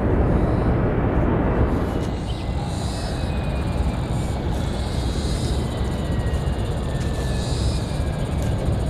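Aeroplane engine noise: a steady heavy rumble with a faint whine slowly falling in pitch. It eases off about two seconds in.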